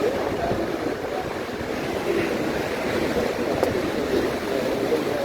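Atlantic surf washing steadily onto a sandy beach, with wind on the microphone.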